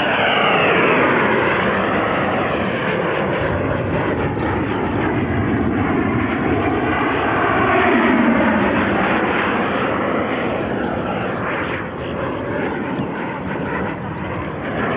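An electric ducted-fan jet model with a 120 mm 12-blade JP Hobby rotor, flying at reduced throttle. Its whine sweeps down and back up in pitch as the jet passes by and turns.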